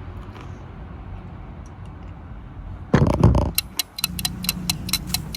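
A short loud clatter about three seconds in, then a rapid, even ticking at about five ticks a second that carries on over a low steady hum.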